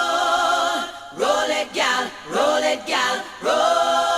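A single voice singing unaccompanied, with no beat or instruments. It holds a long note with vibrato, breaks into four or five short phrases that slide up into each note, then holds a long wavering note again near the end.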